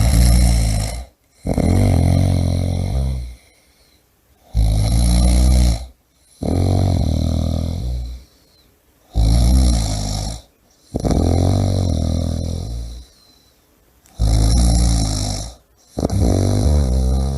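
A person snoring loudly in a steady rhythm. Each of four breaths about every four and a half seconds gives a short snore followed at once by a longer, rougher one.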